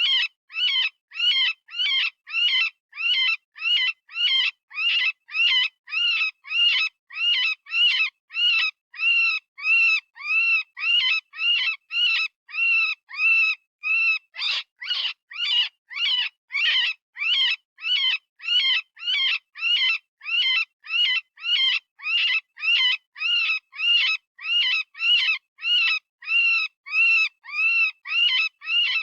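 Software-generated rabbit distress scream, a sound-effect predator call: short high cries repeated about twice a second, each rising then falling in pitch, with silence between. It imitates the scream of a rabbit in pain or fear.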